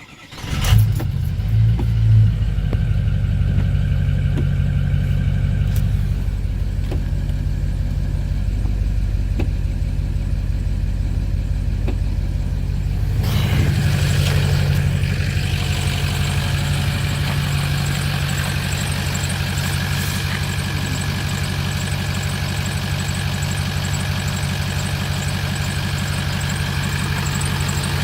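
Engine cold-starting on newly fitted fuel injectors: it catches within about a second, flares twice, then settles into a steady idle. About halfway through, more hiss comes in and the low drone shifts, then the idle holds steady.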